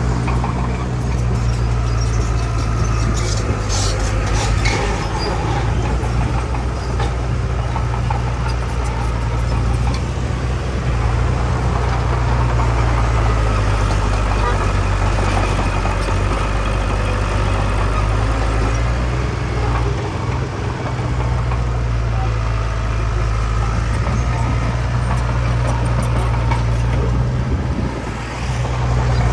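Large diesel engine of heavy earthmoving machinery running steadily with a deep, continuous drone. A few brief metallic clatters come about three to five seconds in.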